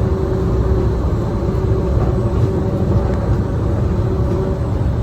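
Disneyland Monorail Mark VII train running along its beam, heard from inside the driver's cab: a steady low rumble with a steady hum on top.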